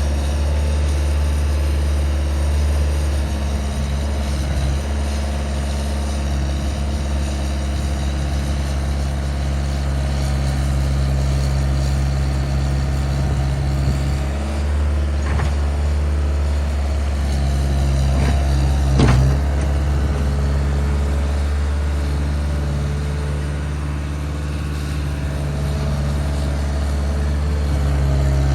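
Skid steer engine running steadily while working, its note shifting a few times as the load changes. A few sharp knocks come through, the loudest about two-thirds of the way in.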